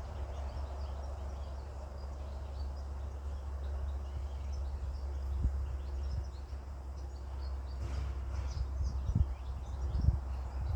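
Small birds chirping, with many short, high notes scattered throughout, over a steady low rumble. A few dull thumps come about halfway and near the end.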